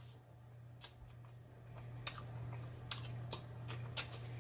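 Close-miked chewing of a mouthful of mayonnaise crab salad: soft wet mouth sounds with several sharp lip-smacking clicks, over a low steady hum.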